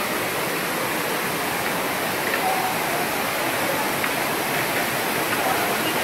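Water rushing steadily over a canyon waterfall into rock pools.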